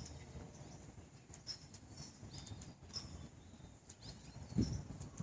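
Small birds chirping in short, repeated calls over a low outdoor rumble, with a brief louder low rumble near the end.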